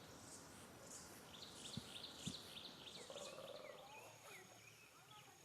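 Faint birds calling: a quick run of high chirps a little over a second in, then scattered calls, over a steady high pulsing in the background. Two soft low taps come near the middle.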